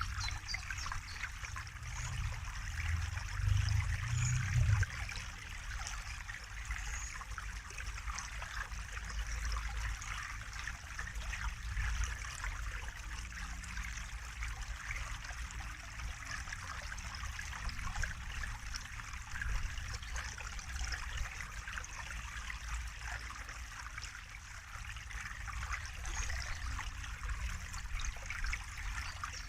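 Water trickling and splashing steadily, with a low rumble that swells briefly a few seconds in.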